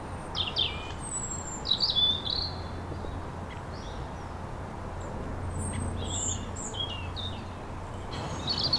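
Songbirds chirping and singing in short high phrases, scattered through, over a low steady background hum.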